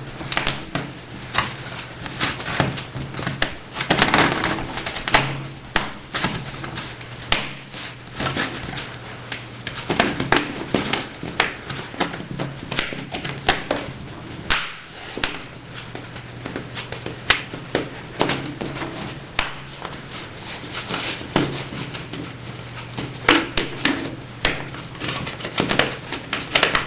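Irregular taps, clicks and small knocks as a flexible model rail is pressed into a tight-fitting routed groove, over a steady low hum.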